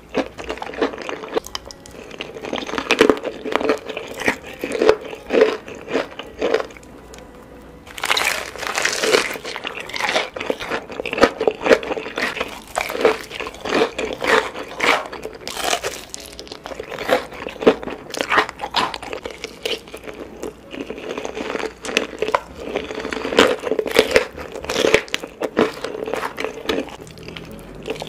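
Close-miked crunching and chewing of a fried chicken drumstick with a crushed Hot Cheetos crust: repeated crisp bites and crackly chews, easing off briefly about seven seconds in, then crunching louder again.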